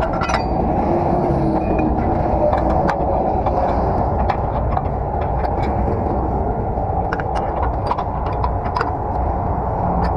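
Heavy diesel truck engine running steadily, a loud, even rumble with scattered light metallic clicks and clanks.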